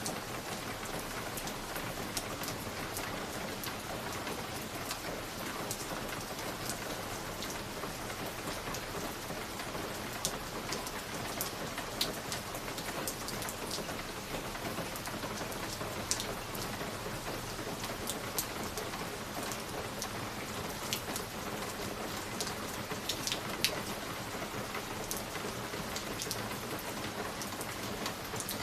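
Fireplace fire crackling: a steady hiss with many scattered sharp pops, one louder pop toward the end.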